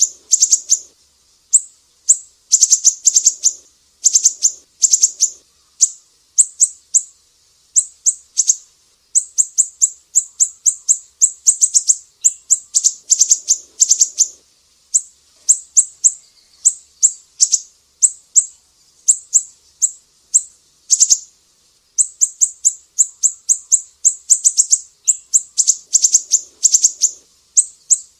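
Sumatran siri-siri bird singing a fast string of high, sharp chirps in bursts of several notes, with short pauses between bursts.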